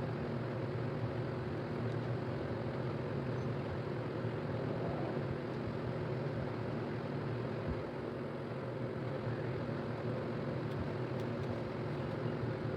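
Steady mechanical hum: a constant low drone of several tones over an even hiss, with no change in pitch or level.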